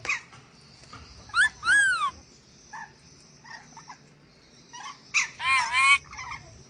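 Nuri dora parrot from Sulawesi calling: harsh squawks that rise and fall in pitch, a pair early on, scattered short chips, then a longer loud run of calls near the end.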